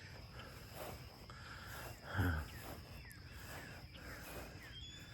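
Crickets and other insects chirping, with a steady high-pitched drone and faint short falling chirps. A brief low voice sound from a person comes about two seconds in.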